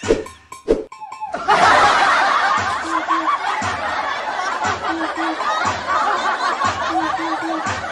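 A baby laughing hard, loud and continuous, starting about a second and a half in, over quiet background music with a short repeating figure.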